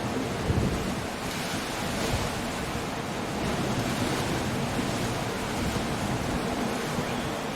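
Stormy sea surf breaking and washing steadily, mixed with strong wind, as a continuous dense rushing noise. A low buffeting thump about half a second in, and the hiss grows brighter after about a second.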